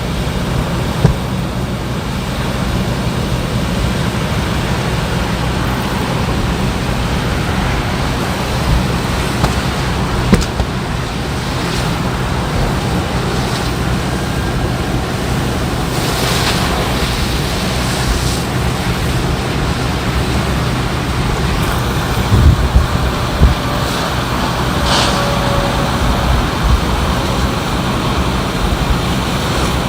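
Steady rushing roadway noise from highway traffic and wind, with a low steady hum underneath. A few short knocks or pops cut through, with a cluster of low thumps about two-thirds of the way in.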